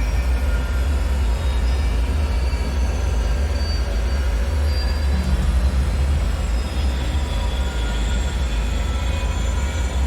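Dark ambient bunker soundscape: a steady, deep low rumble with faint, scattered metallic whines and squeals high above it.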